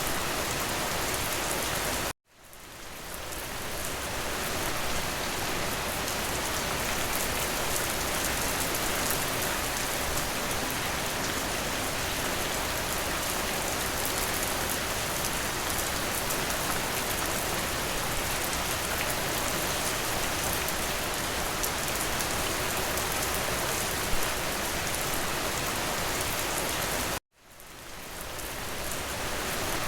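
Steady rain falling, an even rushing hiss. It cuts out abruptly about two seconds in and again near the end, each time fading back up over a couple of seconds, like the seam of a looped recording.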